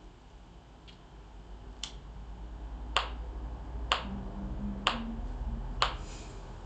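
Finger snaps beating a steady pulse about once a second, counting out the dotted-quarter-note tempo. The first snaps are faint and the rest louder.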